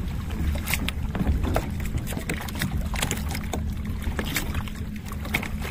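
Water lapping and splashing around a kayak, with many short irregular splashes and knocks over a steady low wind rumble on the microphone.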